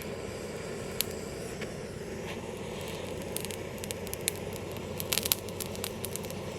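Wood fire burning with irregular sharp pops and crackles over a steady low rush; the crackles come thickest a little past the middle.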